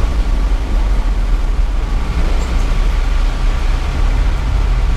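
Mitsubishi Triton ute driving over a rough, wet track, heard from inside the cab: a steady low rumble of engine and tyres with a constant hiss of road noise.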